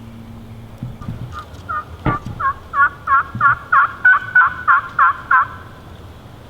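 A series of about a dozen turkey yelps at roughly three a second, growing louder and then stopping. There is one sharp snap about two seconds in.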